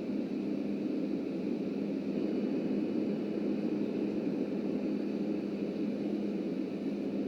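Subway train running, a steady rumble with a constant low hum.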